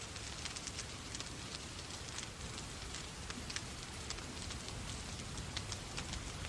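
Wood fire crackling in a fireplace, with many sharp irregular pops and snaps over a steady hiss of rain and a low rumble.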